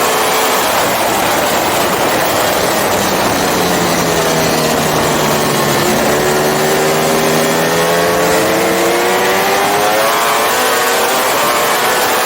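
Onboard sound of a Ducati Panigale endurance race bike's engine with heavy wind noise. The engine note falls over the first few seconds as the bike slows into a corner, runs low briefly, then rises steadily as it accelerates out.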